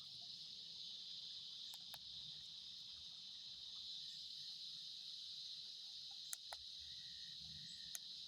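Evening insect chorus, a steady high-pitched trilling that does not let up, with a few faint clicks of handling or twigs, the sharpest about six seconds in and near the end.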